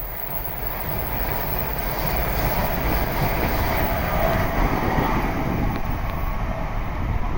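A train running past on the rails: a steady rushing noise that builds over the first couple of seconds and then stays loud.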